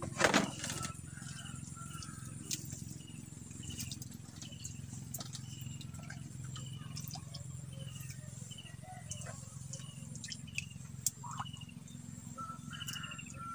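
Birds calling in short, high chirps repeated again and again over a low steady hum, with a single knock just after the start.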